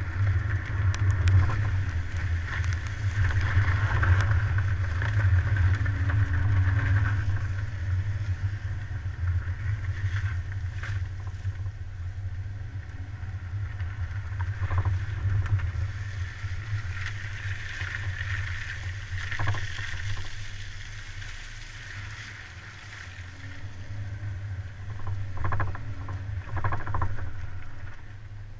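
Car driving: a steady low engine rumble with road and wind noise that swells and eases, and a few sharp knocks near the end.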